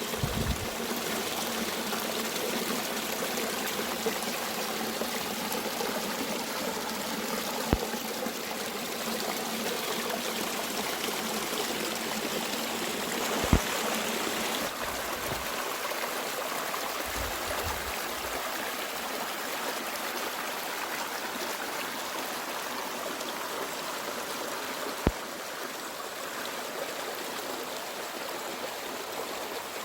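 Mountain stream flowing steadily, an even rush of water, with a few sharp clicks or knocks, the loudest about halfway through.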